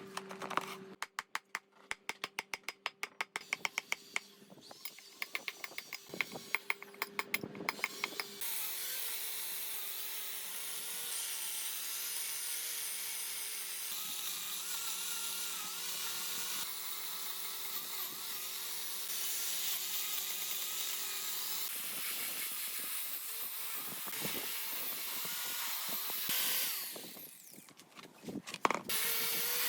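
Rapid sharp taps for the first eight seconds, then a power tool running steadily for about fourteen seconds, with a low hum under both; a few knocks near the end.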